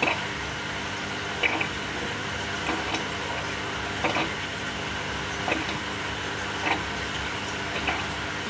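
Samsung 6.5 kg top-loading washing machine agitating: a steady motor hum with a short swishing knock about every second and a half as the drum churns.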